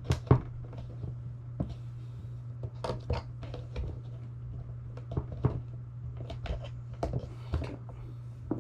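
Scattered light clicks and taps at irregular intervals, from hands handling small hardware and cable during assembly, over a steady low hum.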